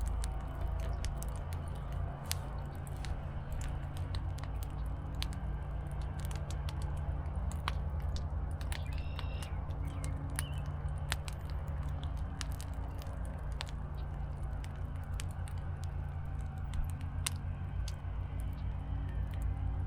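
Campfire crackling, with irregular sharp pops, over a steady low hum.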